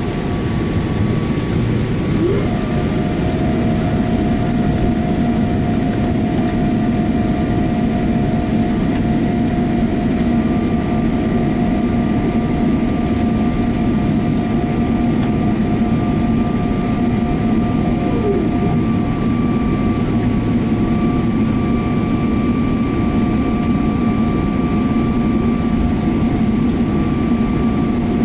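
Boeing 777-300ER cabin noise: its GE90 engines run at low, steady thrust, a constant rumble and rush with a few steady whining tones on top. There is a brief rising tone about two seconds in and a brief falling one near eighteen seconds.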